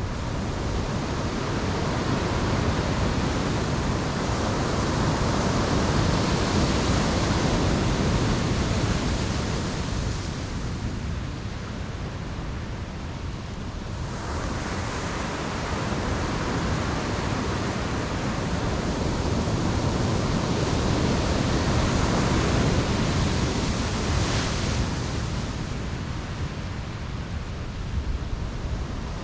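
Ocean waves breaking and washing up the beach, a steady rush that swells and eases in two long surges, with a lull about halfway through.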